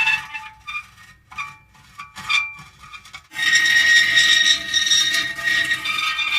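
Metal creaking: a few short, broken squeaks in the first three seconds, then a sustained high-pitched squealing creak from a little past three seconds in.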